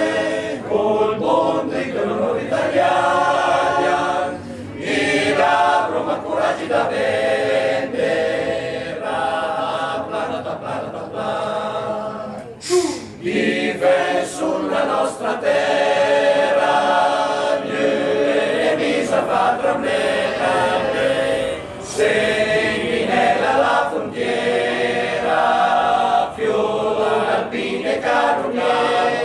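Male voice choir singing a cappella in several parts, with short pauses between phrases.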